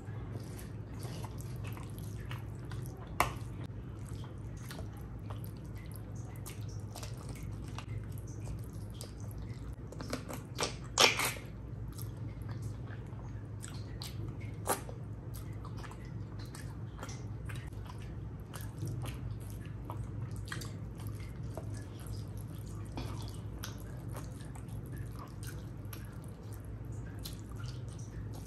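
Close-miked eating: wet chewing and mouth clicks from a person eating rice and curry, a steady string of small smacks, with a few sharper clicks and a louder wet burst about eleven seconds in. A steady low hum runs underneath.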